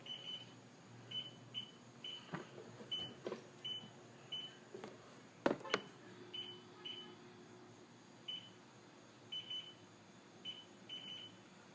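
John Deere STX15 lawn tractor's warning buzzer chirping in short, high-pitched beeps at irregular intervals, some as quick double or triple pips, while the battery is disconnected and the ignition is off, which the owner takes as a sign of a bad voltage regulator. A few sharp clicks come between the beeps, the loudest about five and a half seconds in.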